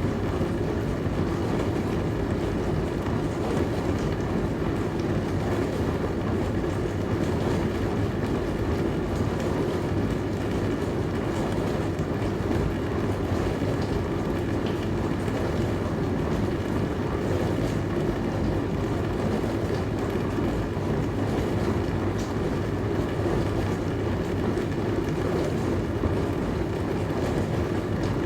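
Dishwasher running steadily, a constant rushing, rumbling hum with no change in level.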